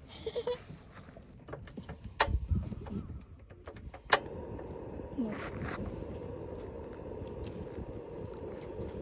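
Handling clatter and a couple of sharp clicks, then after a final click about four seconds in, a steady hiss with a faint hum: a portable gas stove being lit and its burner running under the hot-pot.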